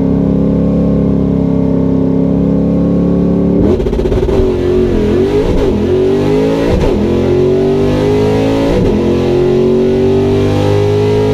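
Drag car's V8 engine held at a steady high rpm for a few seconds, then accelerating, its pitch climbing again and again with several sudden drops, as at gear shifts during a pass.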